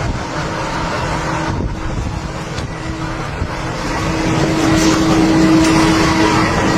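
Helicopter running, a steady engine hum over a rough, rumbling rotor and wind noise that grows louder about four seconds in.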